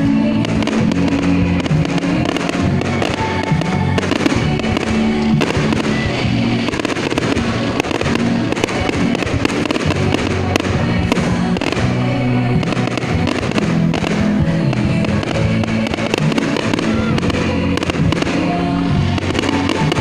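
Fireworks bursting in a rapid run of bangs over loud music that plays throughout.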